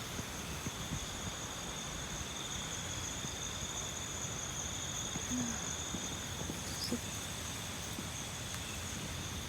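Steady chorus of night insects, two unbroken high shrill pitches, over a low rumble of wind buffeting the microphone.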